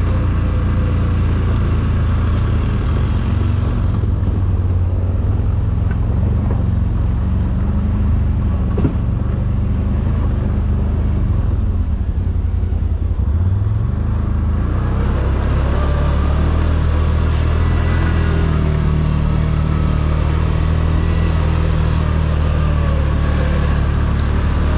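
ATV engine running steadily while riding, its note easing off about 4 seconds in and picking up again with a rising pitch about 14 seconds in.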